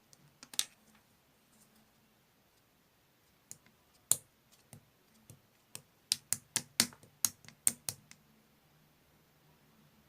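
Clear slime being pressed and poked, making sharp little clicks and pops: a few scattered ones, then a quick run of about nine, roughly four a second, between six and eight seconds in.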